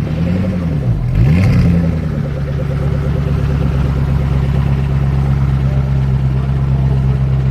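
Koenigsegg Agera RS twin-turbo V8 running: its pitch rises and falls twice within the first two seconds, the second swing the louder, then settles to a steady idle.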